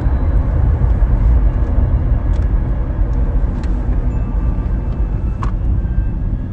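Steady low rumble of road and tyre noise heard inside a moving Tesla electric car, with a few faint ticks.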